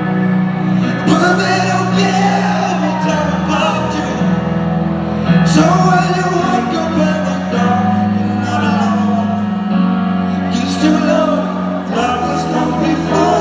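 Live pop band playing amplified music, with sustained bass notes, drum hits and a sung vocal line.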